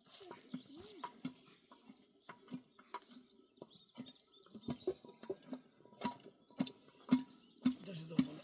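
Steady footfalls on the ground, about two a second, growing louder from about halfway through as they come closer, with small birds chirping.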